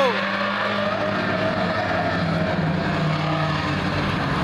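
Cars running laps on a racetrack, the engines holding steady under a constant background of noise.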